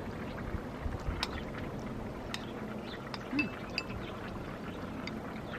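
A few light metallic clinks and taps, as of a spoon against a cast iron Dutch oven while soup is checked and stirred, over a steady rushing background.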